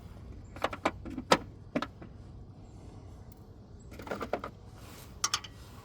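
Irregular sharp metallic clicks and clinks of hand tools against the van's shock mounting hardware: a few single knocks in the first two seconds, then a quicker cluster about four seconds in.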